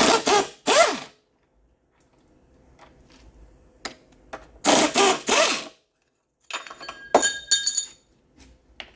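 Impact wrench working on the bolts of a 4L60E transmission's tail housing, in short bursts: two at the start and two more about five seconds in. Near the end, metal parts clink with a bright ringing tone.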